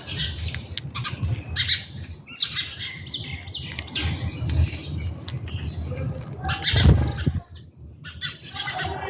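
Birds squawking and chirping in a run of short, harsh calls, often overlapping, with the loudest burst about seven seconds in.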